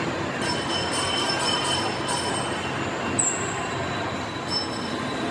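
Steady mechanical noise with thin, faint, high-pitched metallic squeals coming and going over it.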